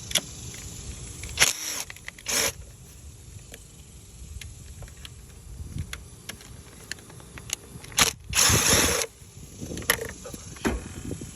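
Clicks and knocks of tools and loose parts being handled on the engine during removal of the intake manifold bolts. Three short harsh bursts stand out: two brief ones in the first few seconds and a louder one lasting about a second some eight seconds in.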